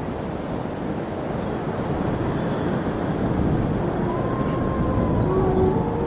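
Steady low rumbling noise, with a wailing tone that comes in about four seconds in and slowly rises.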